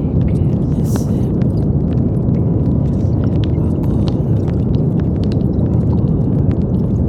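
Steady brown noise: a deep, even rumbling hiss weighted toward the low end. Faint, barely perceptible spoken affirmations lie mixed beneath it.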